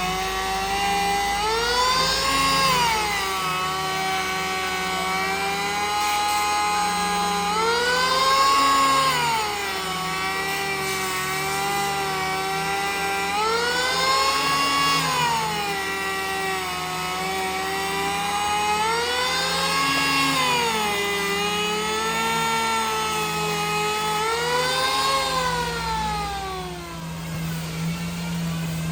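Power tool motor whining, its pitch rising and falling in a slow swell about every six seconds, five times over.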